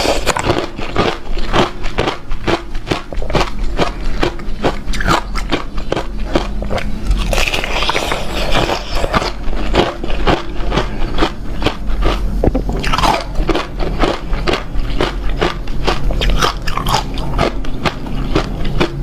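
A person biting and chewing crunchy shaped ice close to the microphone, rapid crunches several a second without pause.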